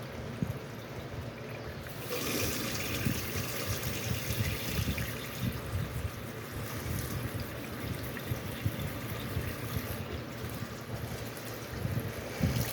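Water running from an open tap while air is bled out of the lines of a newly reconnected water heater; the flow grows stronger about two seconds in.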